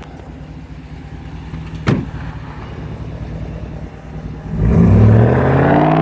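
Muffler-deleted 5.7-litre Hemi V8 of a 2016 Dodge Ram pickup, rumbling at low revs, then accelerating hard about four and a half seconds in, its exhaust note rising in pitch. A single sharp click near two seconds in.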